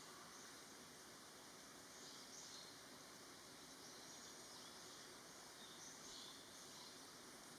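Near silence: faint outdoor background hiss, with a few faint high-pitched calls in the middle.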